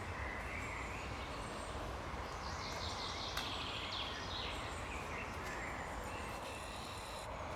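Woodland birds singing faintly over a steady background hiss and low rumble, with one brighter trilling phrase around the middle.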